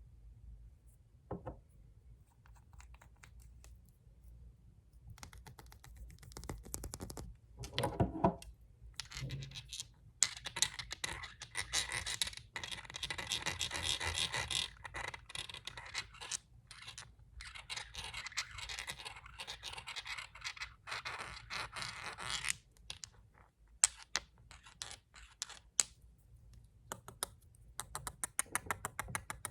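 Fast scratching and tapping on glass nail polish bottles: long stretches of dense, rapid scratching broken by short pauses, with a single knock about eight seconds in and quick ticking taps near the end.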